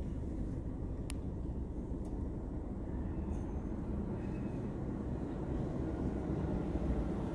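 Car engine idling, a low steady rumble heard inside the cabin, with one sharp click about a second in.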